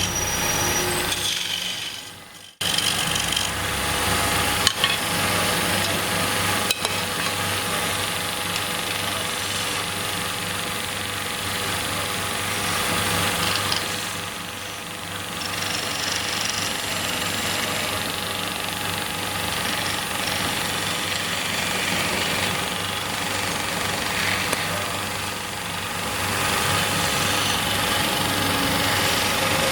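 Wood lathe running while a turning chisel cuts the spinning wood: a steady rasping scrape over the machine's hum. It drops out briefly about two seconds in, then resumes abruptly.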